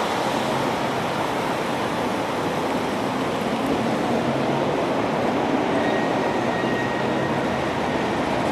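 Steady road noise from moving traffic: a constant rumble and hiss of tyres and engines.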